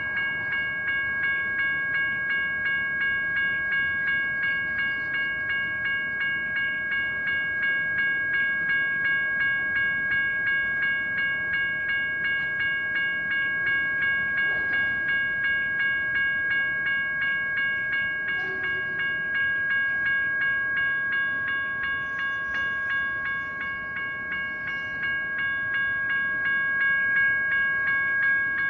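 Electronic crossing bells (General Signals Type 1) ringing steadily at a railroad grade crossing: a rapid, even string of metallic dings that does not let up.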